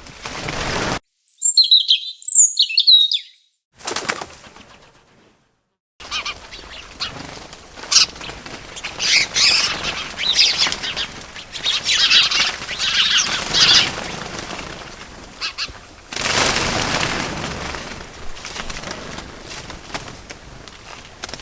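Small birds chirping and flapping their wings. A few sharp, high chirps about a second in give way to a stretch of silence, followed by rustling wingbeats mixed with chirps and a louder flurry of flapping a little after the middle.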